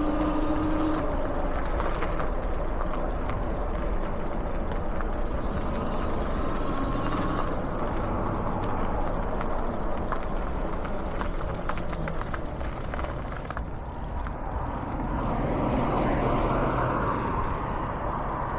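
Steady road traffic noise from vehicles on a nearby highway, with a vehicle passing louder near the end.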